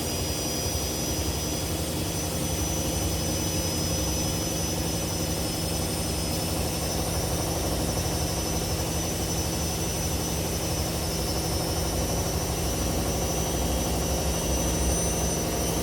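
Two washing machines spinning together: a steady motor hum with a high-pitched whine over it, growing slightly louder as one drum speeds up towards a 1400 rpm spin.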